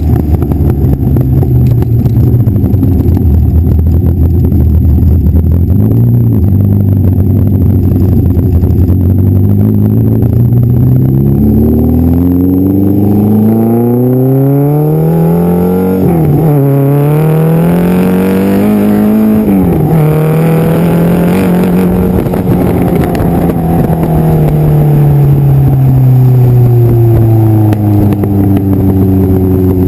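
TVR sports car's engine and exhaust under acceleration: a steady low note for the first ten seconds or so, then the pitch climbs, drops sharply at a gear change, climbs again and drops at a second change. It then holds steady and falls away as the car eases off near the end.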